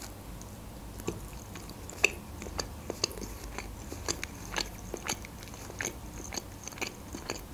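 Close-miked chewing of a bite of bread topped with cream cheese and salted red fish: irregular small mouth clicks and smacks, about two a second.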